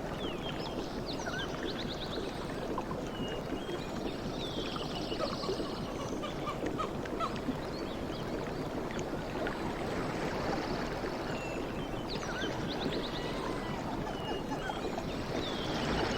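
Sea waves washing steadily, with birds chirping and trilling above the surf; the wash swells louder near the end.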